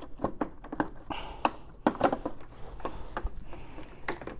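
Irregular plastic clicks, taps and rustling from handling the Sebo X8 upright vacuum's dust-bag compartment and paper bag.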